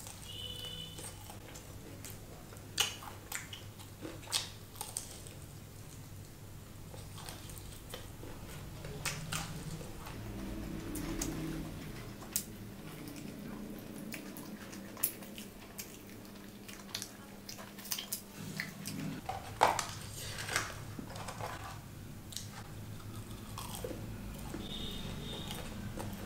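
Close-up biting and chewing of crispy fried chicken, with irregular sharp crunches scattered through.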